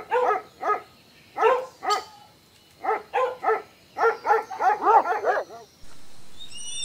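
Dog barking: short, high-pitched barks in quick runs of two to seven, with brief pauses between the runs. About a second before the end the barking stops and a steady hiss takes over.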